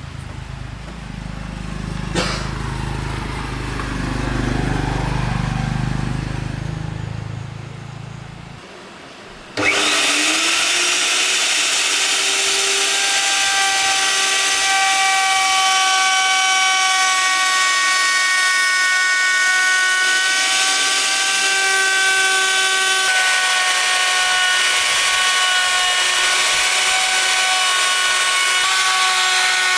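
Low rumble with a single click, then about ten seconds in an electric woodworking power tool starts suddenly and runs with a loud, steady high whine, its pitch dipping slightly partway through.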